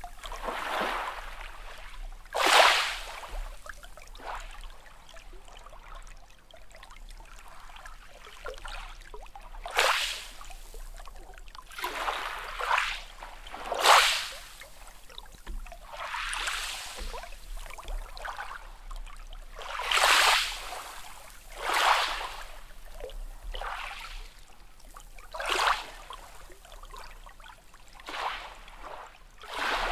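Small sea waves splashing and washing in one after another, irregularly, every couple of seconds, a few of them much louder than the rest. The sound is light and hissy, with no deep booming.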